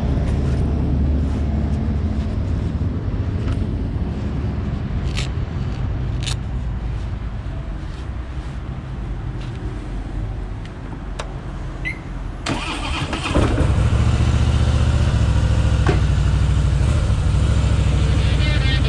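2013 Harley-Davidson Softail Slim's air-cooled Twin Cam 103 V-twin idling steadily, with a few sharp clicks and rustling as riding gloves are pulled on. About two-thirds of the way in there is a knock, and the engine then runs louder and fuller.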